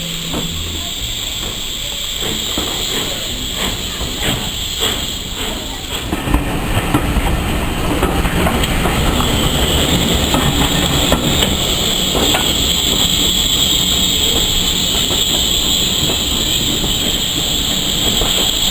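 Steam train moving along the track: a steady rushing noise with scattered clicks, growing louder about six seconds in.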